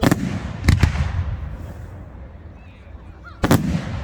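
Aerial firework shells bursting: three loud bangs, one at the start, one under a second later and one about three and a half seconds in, each trailing off in a long rumbling echo.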